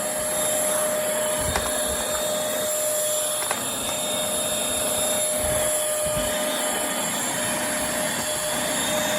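Bissell Featherweight stick vacuum (model 20334) with a 2-amp motor running steadily, a constant whine over a rushing hiss, with a couple of brief clicks.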